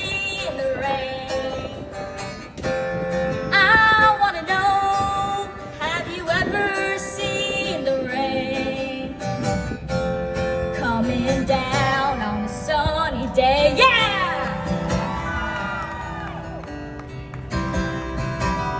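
A woman singing with guitar accompaniment in a roots-rock song, her voice sliding and wavering through drawn-out notes. The singing thins out near the end, leaving the instruments.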